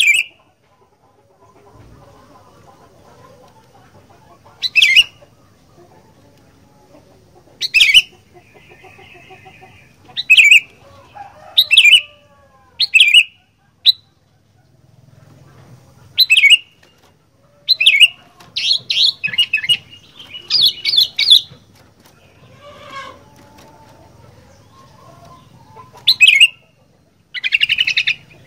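Sooty-headed bulbul (kutilang) calling: short, loud, clear phrases repeated every second or two. A quick run of phrases comes in the middle, and a fast rattling phrase comes near the end.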